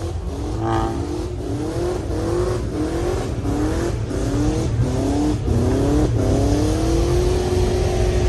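A vehicle engine revving over and over. Its pitch climbs and snaps back down about once a second, over a deep rumble, and it finishes with one longer rev that climbs and then holds.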